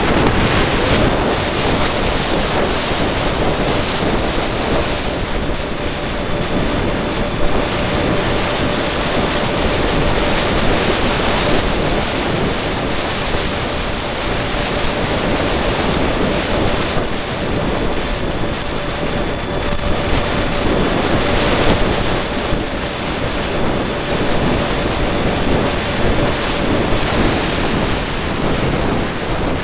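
Strong gusty wind buffeting the microphone: a loud, unbroken rushing roar. A faint steady whine runs underneath from about five seconds in until near the end.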